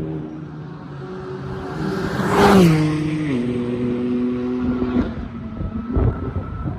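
A BMW F80 M3 Competition's twin-turbo inline-six passes at speed down the straight. Its engine note is loudest about two and a half seconds in and drops in pitch as the car goes by, holds steady, then fades about five seconds in. A low thump follows about six seconds in.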